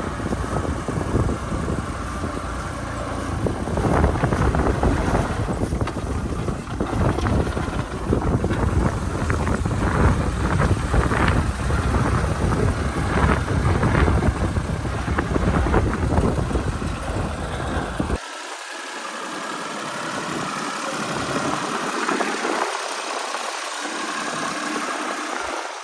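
Tractor engine running steadily under a heavy, uneven low rumble. About three quarters of the way through, the deep rumble cuts off suddenly and the engine goes on quieter.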